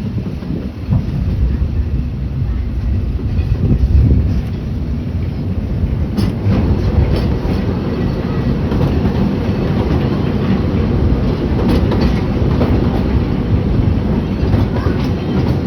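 Walt Disney World Railroad steam train heard from aboard a passenger car as it rolls along the track: a steady low rumble of wheels on rails, with a few faint clicks about six and twelve seconds in.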